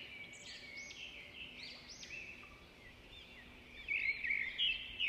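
Small birds chirping: many quick rising-and-falling chirps overlapping, growing louder near the end.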